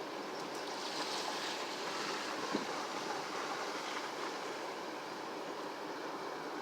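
Steady rushing outdoor noise, with one small knock about two and a half seconds in.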